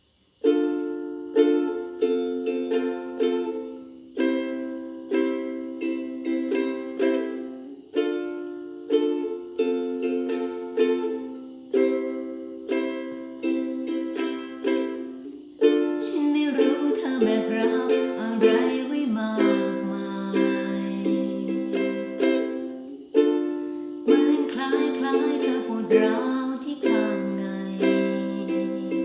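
Solo ukulele playing an instrumental intro: chords plucked with a steady pulse, turning into fuller, busier strumming about halfway through.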